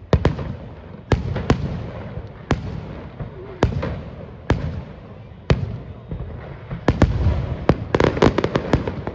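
Aerial fireworks bursting: sharp bangs about once a second with a low rumbling echo between them, building to a rapid string of bangs near the end.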